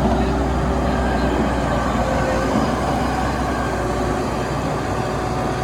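JCB 116D vibratory road roller's diesel engine running steadily under working load, with a deep low rumble that eases a little about four seconds in.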